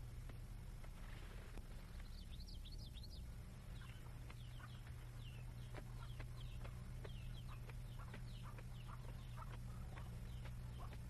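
Faint bird chirping: many short, quick, falling chirps starting about two seconds in and continuing, over a steady low hum.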